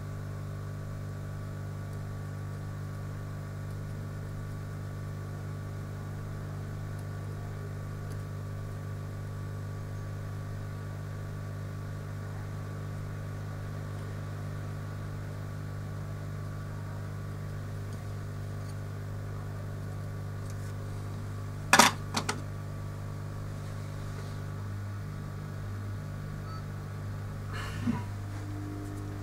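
Steady electrical hum, several low tones held level throughout, with a sharp click about 22 seconds in followed by two lighter clicks, and a fainter click near the end.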